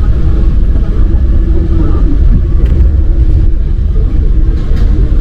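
Rubber-tyred MP 05 metro train running, heard on board: a loud, steady low rumble with a hum of steady tones over it.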